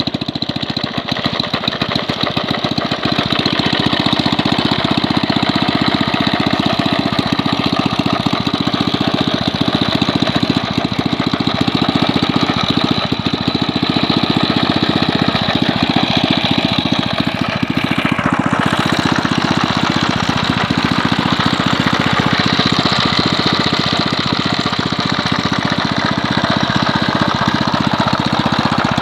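Villiers Mark 10 single-cylinder two-stroke petrol engine running just after starting, picking up over the first few seconds and then running steadily with rapid, even firing. It is an old, somewhat worn engine driving a Delta 6 grinder.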